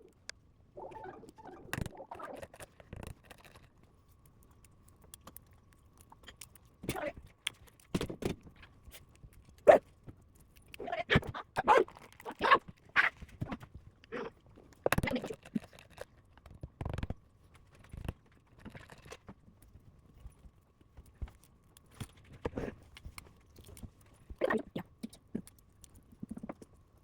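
A person eating eggs close to the microphone: wet chewing and smacking mouth sounds with sharp clicks, coming in scattered short bursts.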